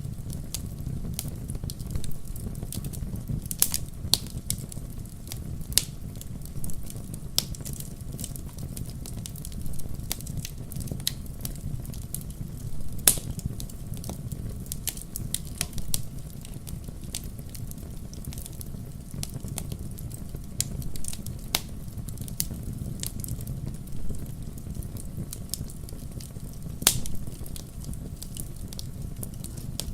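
Wood fire crackling in a fireplace: irregular sharp pops and snaps of burning logs over a steady low rumble of flame, with louder pops about 13 seconds in and again near the end.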